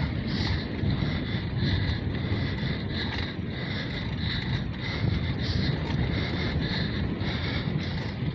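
Wind rumbling on the microphone, with a high pulsing sound repeating about twice a second over it.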